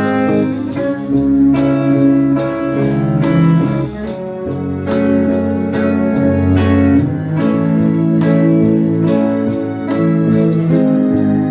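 Band playing a guitar-led rock song: guitar chords and notes over a bass line, with regular cymbal hits.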